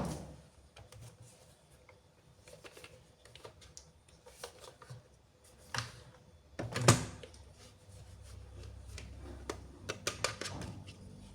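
Irregular light clicks and taps of toys and their packaging being handled, with one louder knock about seven seconds in and a cluster of quick clicks near the end.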